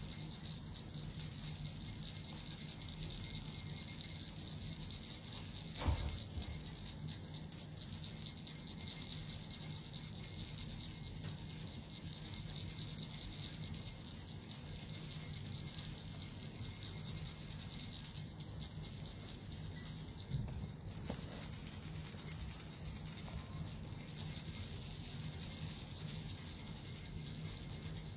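Japanese suzu bells shaken steadily in a continuous, high, shimmering jingle, dipping briefly about two-thirds of the way through.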